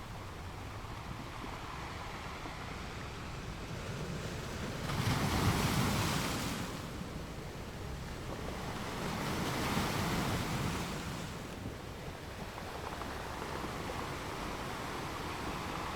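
Ocean waves breaking on rocks: a steady wash of surf with two louder wave crashes, about five seconds in and again about nine seconds in.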